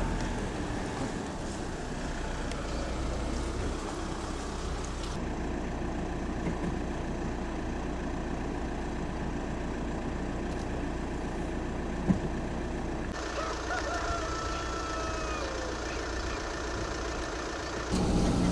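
Steady outdoor background noise, broken by a single sharp knock about two thirds of the way through, followed by a few short descending bird calls.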